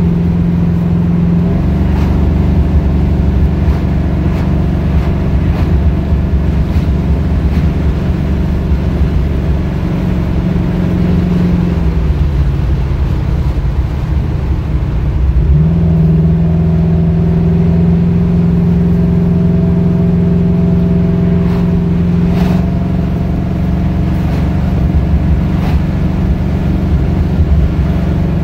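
Loud 357 small-block Chevy V8 with an XE274 cam running under load at a steady engine speed. About twelve seconds in the pitch sags lower, then jumps back up a few seconds later and holds. The engine has a misfire that the owner reports at 2500-3000 rpm under acceleration and suspects may be internal, a valve or bad compression.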